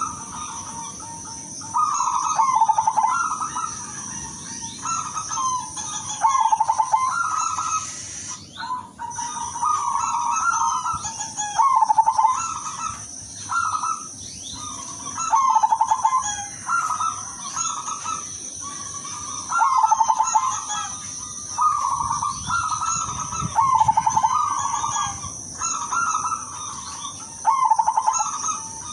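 Zebra dove (perkutut) singing: repeated trilled cooing phrases, about one every one to two seconds.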